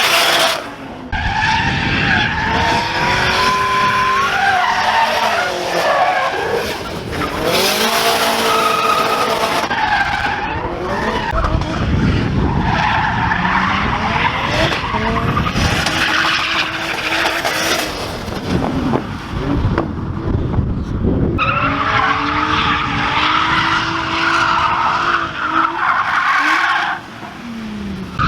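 Drift cars' engines revving up and down again and again, with tyres skidding and squealing on the pavement.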